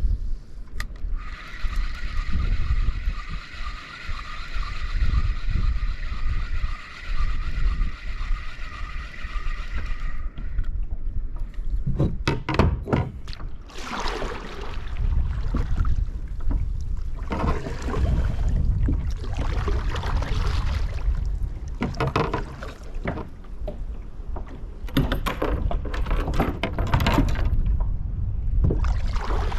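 Strong wind buffeting the microphone, with water slapping and splashing against a kayak. For the first ten seconds or so a steady whirring whine runs over it, then stops.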